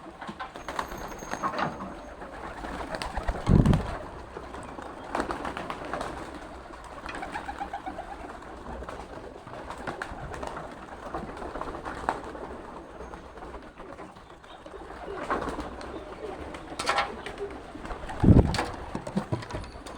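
Domestic pigeons cooing repeatedly at close range, with a couple of louder low thumps, one a few seconds in and one near the end.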